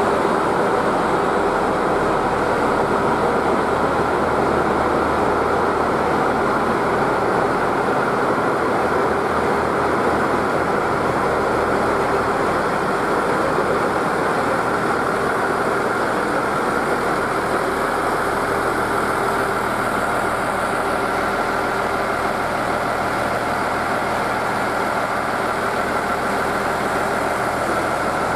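Passenger train rolling slowly past at a station platform, its engine running steadily along with the rumble of its wheels on the rails.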